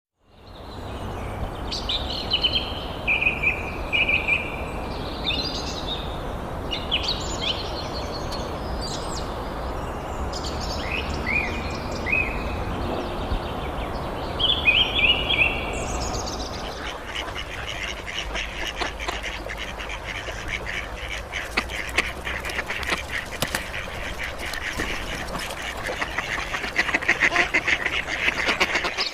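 Small birds calling, with short repeated chirps at first, then dense, rapid chattering from about halfway through, over a steady low background noise.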